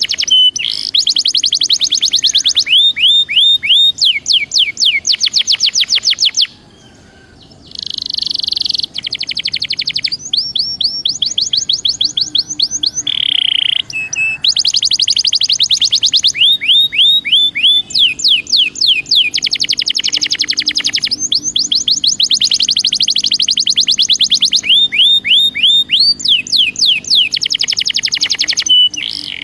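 Belgian canary singing: long rolls of rapid, evenly repeated high whistled notes, changing from one tour to the next, with a brief pause about six seconds in.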